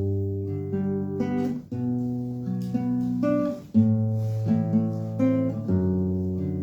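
Acoustic guitar playing strummed chords, an instrumental passage between the sung verses of a song.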